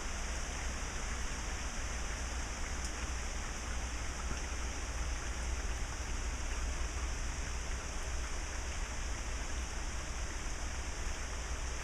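Steady rain from a hurricane's trailing rain band, falling as a continuous even hiss.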